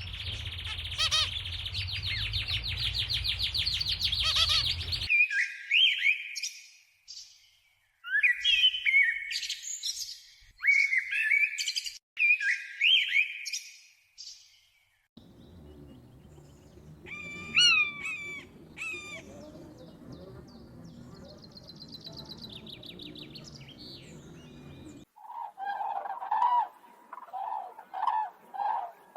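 Several different birds calling one after another, with abrupt changes between them. First comes a dense, rapid chatter for about five seconds, then a series of clear whistled phrases that glide up and down. Next come a few sharp calls over a low hum, and near the end a lower call repeated several times.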